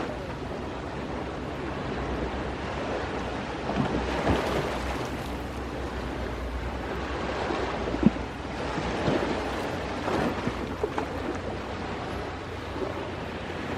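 Ocean waves washing onto the shore in a continuous surf, with a low wind rumble on the microphone. A few sharp pops from a crackling campfire, the clearest about eight seconds in.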